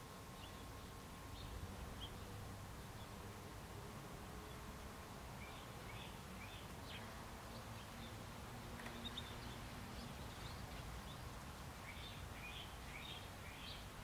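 Faint, short chirps of small birds, in a cluster about six seconds in and another near the end, over a low steady background rumble.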